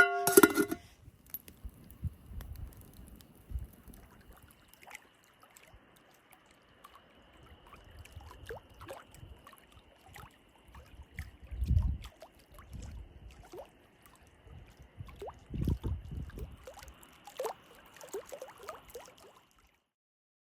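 Small lake waves lapping and gurgling at the shore, swelling in low surges every few seconds. A metal pot clinks once at the very start. The sound cuts off abruptly near the end.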